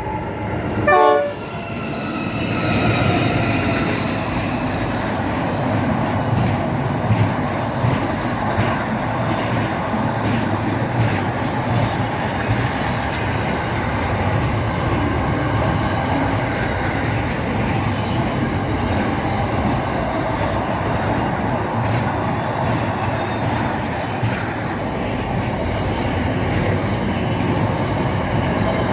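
A passing train sounds its horn in the first few seconds, the loudest blast about a second in. The horn then gives way to a steady loud rumble of the train going by, with wheel clicks over the rail joints.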